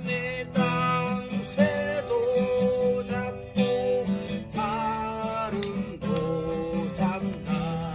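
Acoustic guitar strummed in a steady rhythm, with a voice singing a slow melody in long held notes over it.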